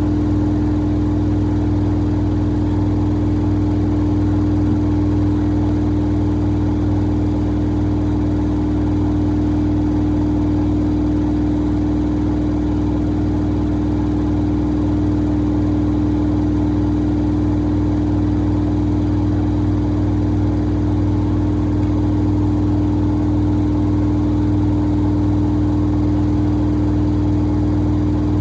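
Samsung WD70T4047CE washer-dryer running with a steady, unchanging motor hum.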